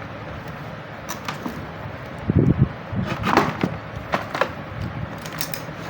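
Clicks, knocks and scrapes of hand work as nuts are fitted to fasten an LCD TV's power supply board in place, the loudest knocks a little over two seconds in, over a steady low hum.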